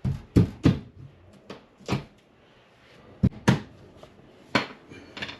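Irregular sharp knocks and clunks, about nine of them, from hand work on an opened drywall wall.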